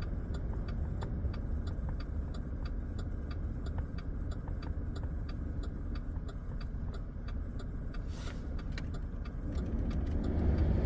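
A truck's engine idling with a steady low rumble, heard from inside the cab, over a regular light ticking of about three ticks a second.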